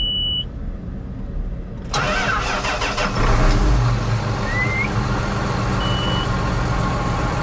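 A tractor engine starting: a short high beep at the start, then the engine catches about two seconds in, grows louder for a moment and settles into a steady run.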